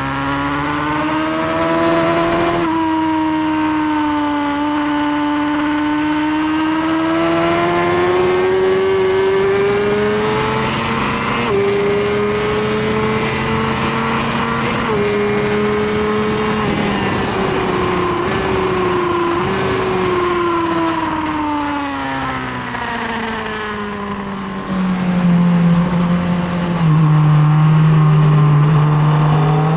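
2018 Suzuki GSX-R1000R's inline-four engine running hard on track. Its pitch climbs through the gears with short steps at the shifts, then falls over several seconds as the bike slows. Near the end it holds a louder, low steady note.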